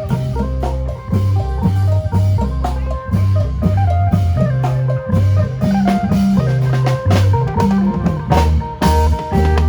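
Isan phin band playing a brisk lam phloen groove: an amplified phin picks a quick melody over bass notes and a drum kit beat.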